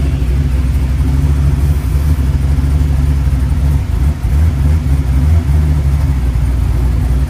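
Car engine running steadily with a deep low rumble, dipping briefly about halfway through.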